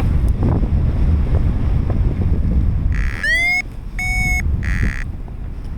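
Strong wind buffeting the microphone in flight, a steady low rumble. About three seconds in, a short electronic tone rising in pitch and then a brief held beep sound, each set among short bursts of hiss.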